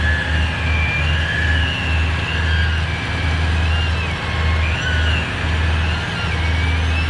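Tow truck's engine running steadily under load while its winches pull, a low hum that pulses at first and then evens out, with a thin wavering whine above it.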